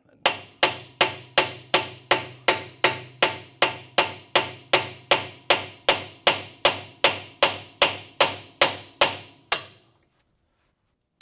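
Steady hammer blows driving a new axle bearing into a GM 12-bolt rear axle housing, a little under three strikes a second, each a sharp metallic knock that rings briefly. The blows stop shortly before the end.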